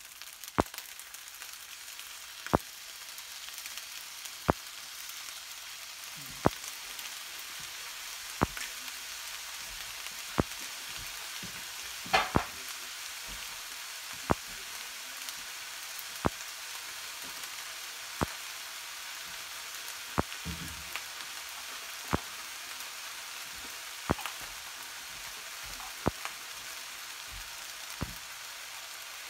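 Shrimp fried rice sizzling steadily in a nonstick wok, with a sharp click about every two seconds and one longer crackle about midway.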